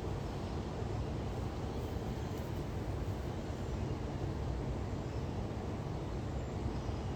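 Steady low rumbling background noise without distinct events.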